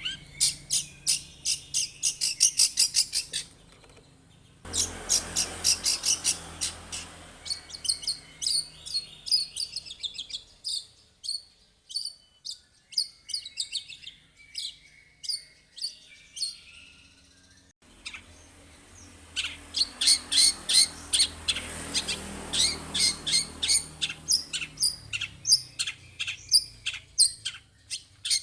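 Long-tailed shrike (cendet) singing fast runs of sharp, high chattering notes, several a second. The song thins out and quietens in the middle, then comes back dense near the end.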